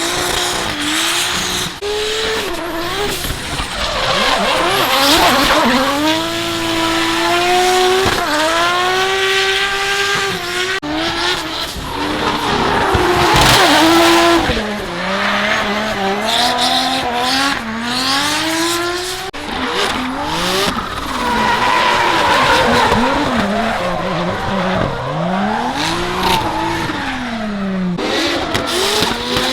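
Drift cars' tuned engines revving hard, the pitch climbing and dropping again and again as they are held on the throttle through slides, over a steady hiss of tyres on a wet track. The sound breaks off sharply about 11 and 19 seconds in.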